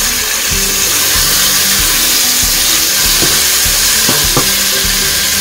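Raw chicken pieces sizzling in hot oil and masala in a pot while they are stirred with a wooden spatula.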